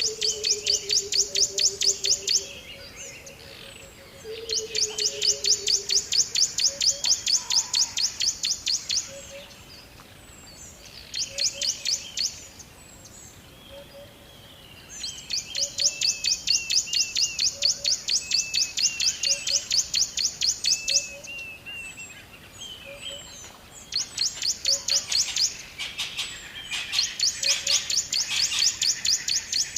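Birds calling in the wild, with repeated bouts of a fast, high, rattling trill lasting a few seconds each, separated by short pauses. Softer whistled notes and lower falling calls come in between.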